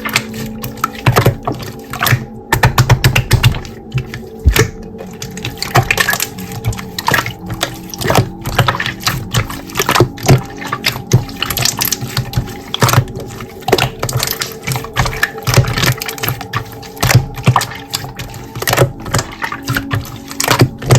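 Slime being squeezed and kneaded by hand, with rapid, irregular wet clicks and pops, over quiet background music.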